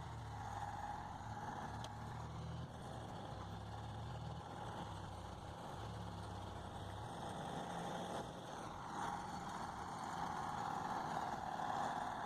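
Tractor diesel engine running in a muddy field, a steady low drone that weakens about two-thirds of the way through.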